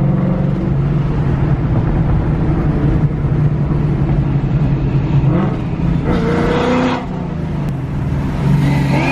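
Loud car engine running hard, with its pitch rising in a rev about five seconds in and again near the end.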